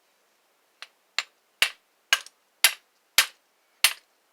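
A hammer striking a Master padlock to break it open: about seven sharp metal blows, roughly two a second, the first couple lighter and the rest hard.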